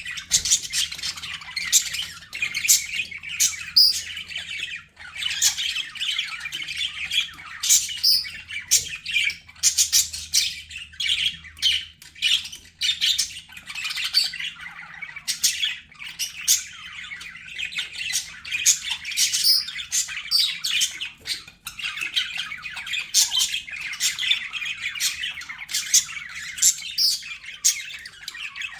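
Budgerigars chattering continuously: a dense run of rapid chirps, warbles and short squawks, several birds calling over one another.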